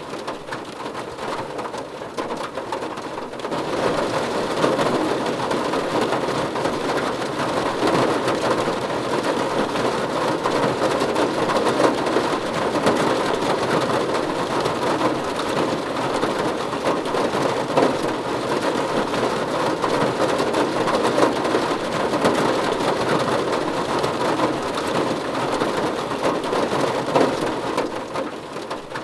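Heavy rain falling steadily, a dense rushing hiss that grows louder about three and a half seconds in and eases slightly near the end.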